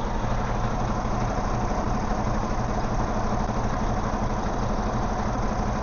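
Semi-truck diesel engine idling steadily just after start-up.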